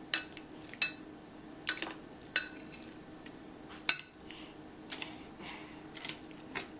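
Mashing avocado for guacamole: a kitchen utensil clinks sharply against the bowl about eight times, irregularly, roughly once a second.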